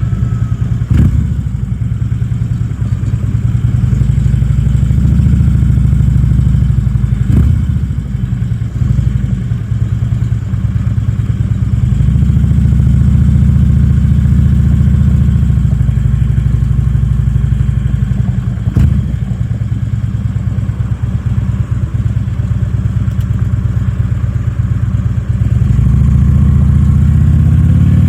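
Harley-Davidson V-twin engine running steadily under way, with a few sharp knocks, and rising in pitch near the end as it accelerates.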